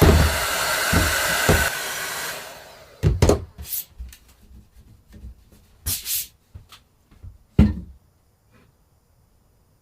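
A hair dryer-type blower running, then switched off and fading after about two and a half seconds, as used to dry the emulsion on a silk screen. A few knocks and clatters of handling follow, the sharpest near the end, then quiet.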